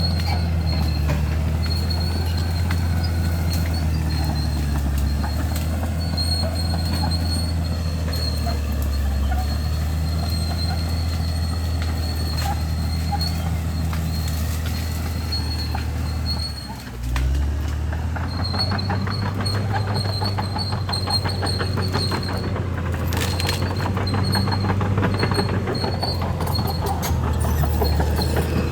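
Crawler bulldozer's diesel engine running steadily under load, with a thin high-pitched squeal from the tracks coming and going. A little past halfway the engine dips briefly, then picks up again with a rapid clatter.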